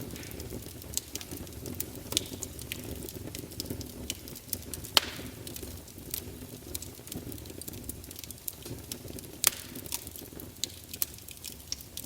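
Wood fire crackling in a fireplace: many scattered sharp pops over a steady low rumble of flame, with two louder pops about five seconds and nine and a half seconds in.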